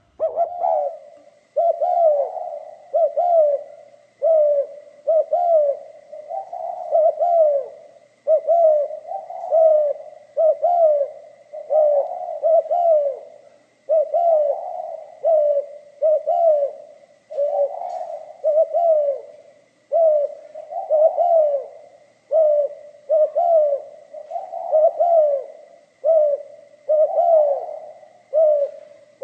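Spotted dove cooing over and over, one short phrase of low coos after another with barely a gap between them, starting suddenly out of quiet. A faint steady high tone runs underneath.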